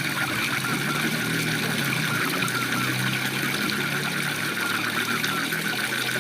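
Waterfall rushing steadily, with frogs calling in a fast pulsed trill over it and a low wavering hum underneath.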